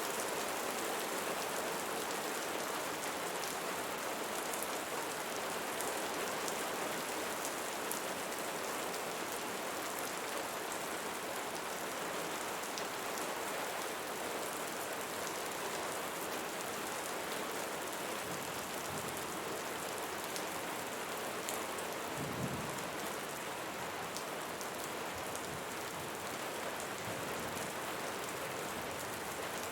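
Steady rain falling on a surface: an even hiss with scattered sharp drop ticks, and a brief low rumble about three-quarters of the way in.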